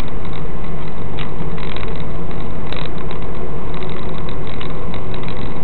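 Car engine idling, heard from inside the cabin as a loud, steady rumble and hiss on the dash cam microphone.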